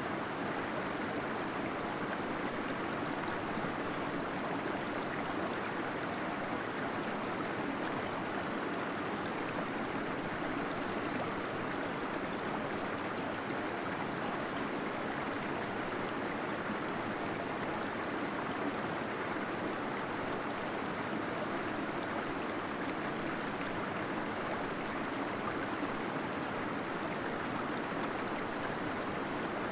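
Small waterfall splashing and gurgling steadily inside a cave.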